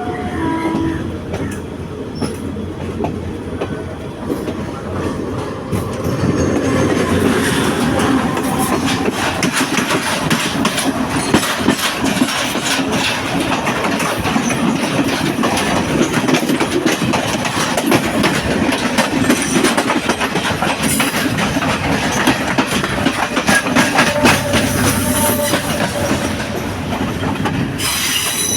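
Train running on the rails with steady wheel clatter, growing louder about six seconds in. Near the end a high wheel squeal comes in.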